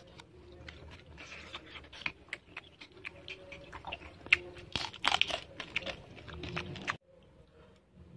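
A person chewing crisp fried grasshoppers close to the microphone: dense, irregular crunching that stops abruptly near the end.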